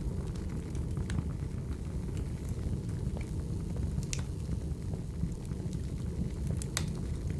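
Wood fire crackling: a steady low rumble with scattered sharp pops, the loudest about four seconds in and near the end.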